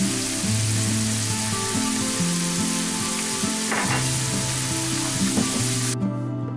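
Coarse minced pork sizzling as it fries in a pan, an even hiss over soft background music. The sizzle cuts off suddenly near the end, leaving only the music.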